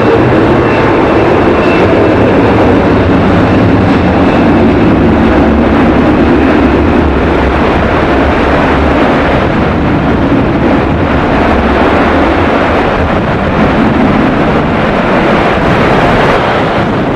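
Jet airliner engines running loud as the aircraft moves along the runway, with a faint high whine that fades in the first few seconds. Strong wind and heavy rain are mixed in.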